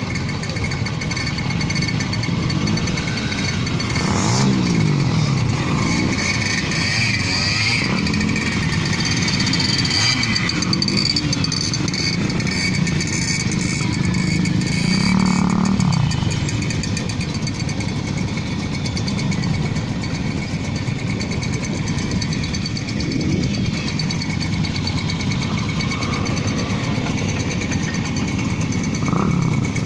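Several small 50cc moped engines running together on a group ride, their revs rising and falling, with louder swells about four seconds in, around fifteen seconds and near the end.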